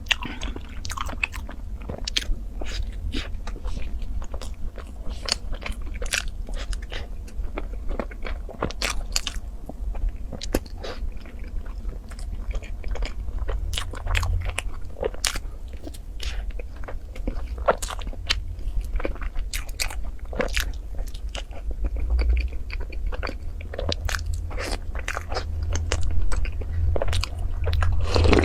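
A person biting and chewing food close to the microphone: a dense, irregular run of sharp mouth clicks over a steady low hum.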